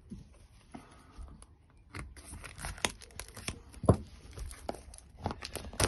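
Irregular small clicks and knocks of hands handling an RC servo and plastic chassis parts on a bench, with one sharper knock about four seconds in.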